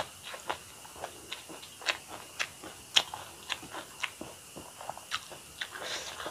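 Close-miked mukbang chewing: a fast, irregular run of wet mouth clicks and smacks, about three a second, as a mouthful of rice and curry is chewed with closed lips.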